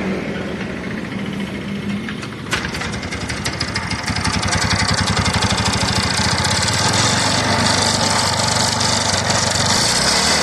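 TVS Ntorq 125 scooter's single-cylinder four-stroke engine running, with a sharp click about two and a half seconds in and a louder, fast, even beat from about four seconds. This is the odd noise the mechanic puts down to a faulty starter one-way clutch or a loose one-way clutch nut.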